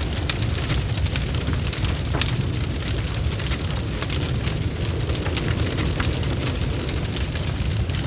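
Wood fire crackling steadily, with frequent sharp pops and snaps over a low rumble of the flames.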